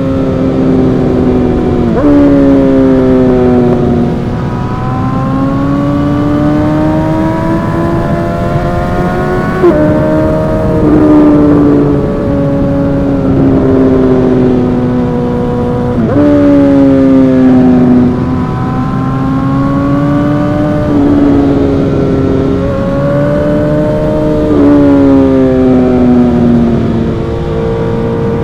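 Suzuki GSX-R1000 inline-four with an M4 exhaust under way. Its pitch climbs and falls with the throttle and jumps suddenly about every few seconds at the gear changes, over steady wind rush.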